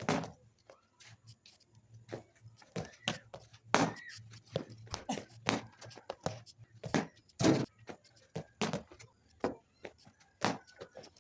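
An irregular series of short, sharp knocks and clicks, about one or two a second, mixed with bits of voices.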